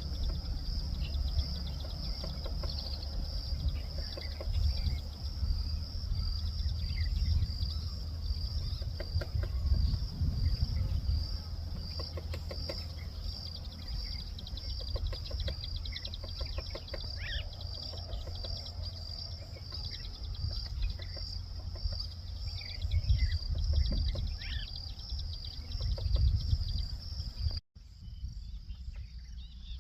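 Insects chirring in a steady, rapidly pulsing high drone over a low rumble, with scattered short bird calls.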